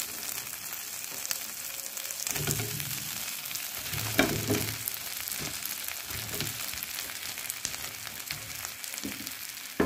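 Onions, curry leaves and chillies sizzling in ghee in a non-stick frying pan as pieces of fried paneer are tipped in and stirred, with soft knocks and one sharp knock about four seconds in.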